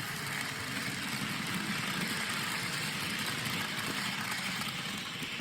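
Warship-class diesel locomotive passing with a steady engine running sound.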